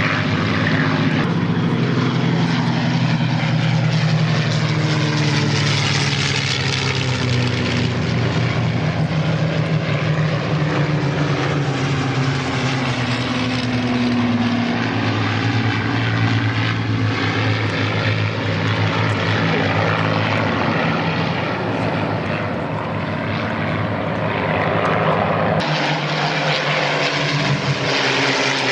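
Several Second World War propeller fighters' piston engines droning as they fly past, the engine note slowly rising and falling as they pass.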